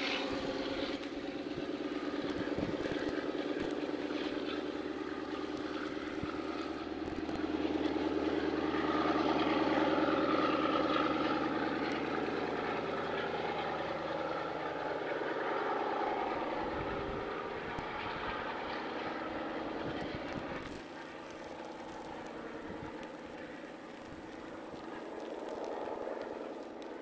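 Diesel-hauled passenger train pulling away along the line: a steady engine drone with the rumble of the rolling carriages, loudest early on and dropping off after about twenty seconds as it recedes.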